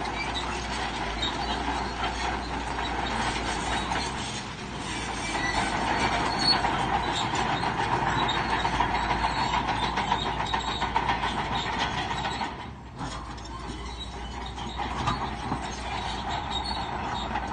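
Crawler bulldozer at work: steel tracks clanking and squealing over the running engine, dropping off briefly near the end before picking up again.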